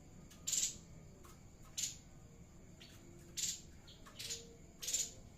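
Grey-headed babbler calling: five short, hissy notes about a second apart, played as a lure call for bird keepers.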